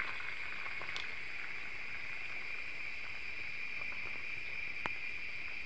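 Beaten egg and crab meat omelette mixture sizzling steadily in a hot frying pan, with two faint ticks.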